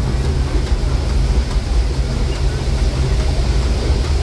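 Narrow-gauge passenger train rolling along, heard from aboard a passenger car: a steady low rumble of wheels on the track with running noise above it.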